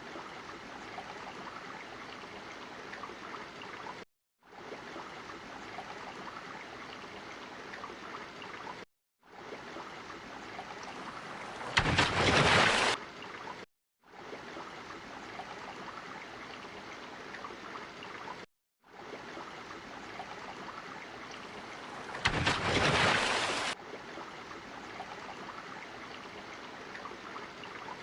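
Looped water sound effect: a steady rushing of water that stops dead for a split second every four to five seconds as the loop restarts. Twice, about halfway through and again near the end, a louder rush of water swells up for about a second.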